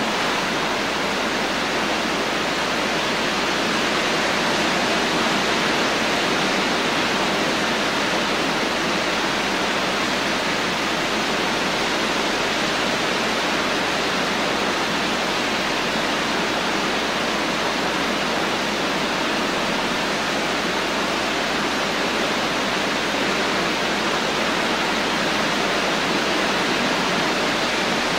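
Rain falling steadily, an even hiss with no single drops, thunder or other events standing out.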